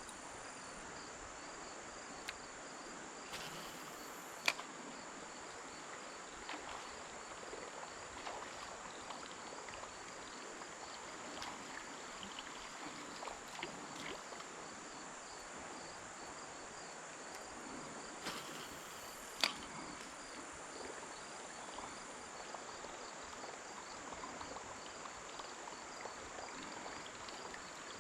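Insects chirping steadily in a constant, evenly pulsing high drone. Twice, about 4 seconds in and again about 19 seconds in, a brief hiss ends in a single sharp click.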